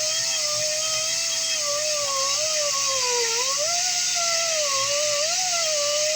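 Air-powered rotary sanding disc running at high speed: a steady whine over a hiss of exhaust air. Its pitch sags and recovers, dipping most about three seconds in, as it is pressed against a steel bolt head to grind it off.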